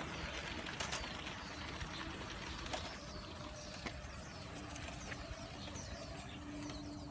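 Small birds chirping repeatedly over a steady hiss, with a few sharp clicks.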